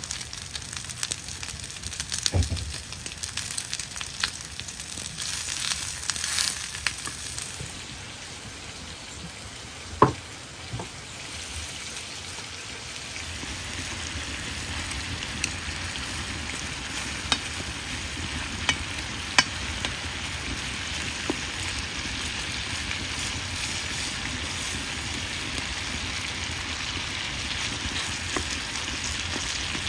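Slices of pork belly sizzling in a pan over a wood fire, with light clicks and taps of wooden chopsticks stirring against the pan. The sizzle grows louder and steadier a little before halfway through, and there is one sharp knock about ten seconds in.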